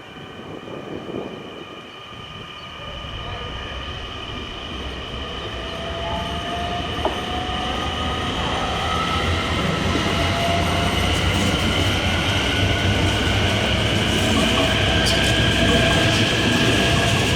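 NS Sprinter Nieuwe Generatie (CAF Civity) electric multiple unit approaching, its rumble and a slowly rising electric whine of several tones growing steadily louder.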